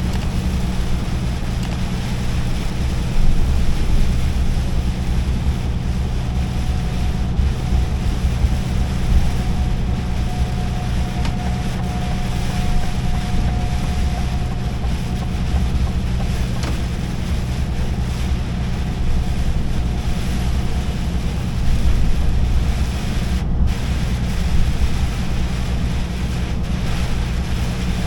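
Heavy truck on the move: a steady low engine drone under rushing road and wind noise. A faint steady whine comes in for a stretch in the middle.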